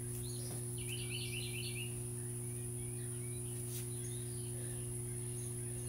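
A bird gives a quick run of about six high chirps about a second in, with a few fainter chirps after, over a steady background hum.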